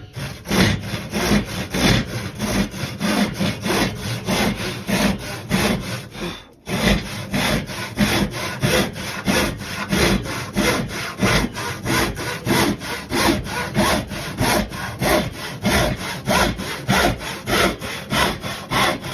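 Hand saw cutting through a piece of timber in steady, rapid back-and-forth strokes, with one short pause about six and a half seconds in.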